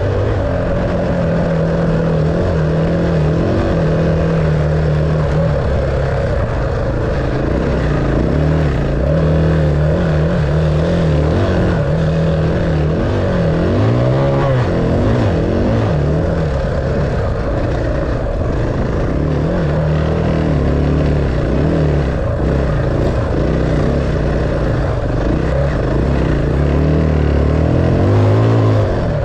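Enduro dirt bike engine running under changing throttle as it is ridden, its pitch rising and falling with the revs.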